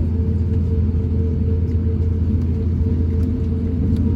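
Steady low rumble of an Airbus A350-1000 cabin on the ground after landing, with a constant mid-pitched hum over it.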